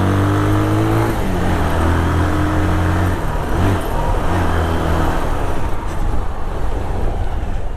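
Motorcycle engine pulling away, its pitch rising through about the first second, then running steadily under road and traffic noise.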